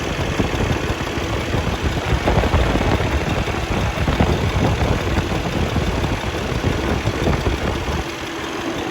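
Cummins ISX inline-six diesel in a 2012 Kenworth T700 idling steadily with the hood open. It runs even and sounds pretty tight, with no blow-by, which the seller takes as a healthy engine. The low rumble thins out a little about eight seconds in.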